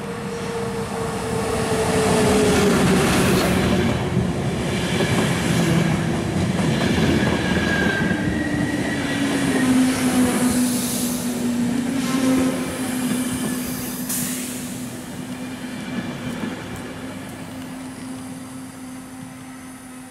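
ÖBB Intercity passenger train pulling in along the platform, its coaches rolling past with wheel clatter and brake squeal as it slows. A hum drops in pitch over the first half and then holds steady, while the noise fades towards the end.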